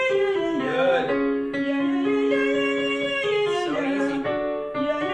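A man singing a vocal warm-up exercise in a light, connected mix voice, with held notes stepping up and down a scale and a few short slides between them, over instrumental accompaniment.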